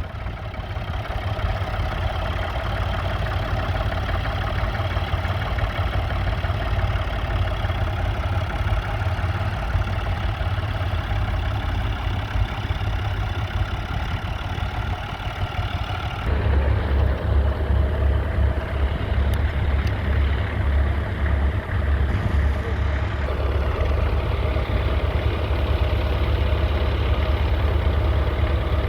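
Massey Ferguson 135's 2.5-litre three-cylinder diesel engine running steadily. About halfway through its sound turns abruptly louder and deeper.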